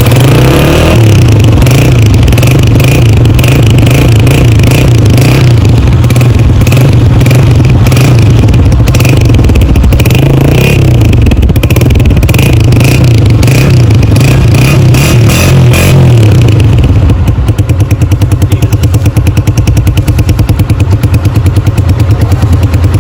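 Honda CG 125's single-cylinder four-stroke engine running loud and close, its pitch rising and falling at raised revs, then settling into a slower, evenly pulsing beat about 17 seconds in.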